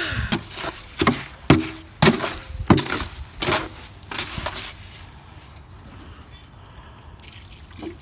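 Concrete being mixed by hand: a mixing tool knocking and scraping through the wet mix in a series of sharp strokes, roughly one every half second to second, for about four and a half seconds, then quieter.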